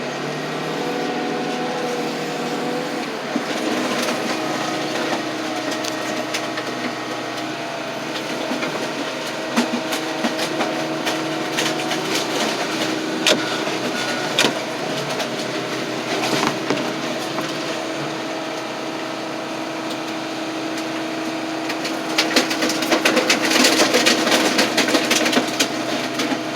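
Heavy machine running steadily while it crushes a pickup truck, with scattered sharp cracks and snaps of metal giving way, and a spell of denser crunching near the end.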